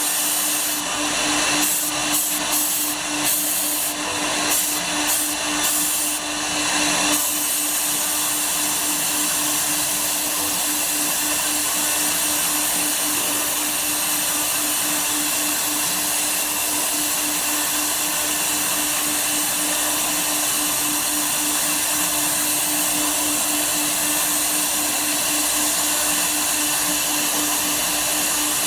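Woodworking CNC router running, its spindle giving a steady whine over a loud hiss of cutting. The sound is uneven for the first seven seconds or so, then holds steady.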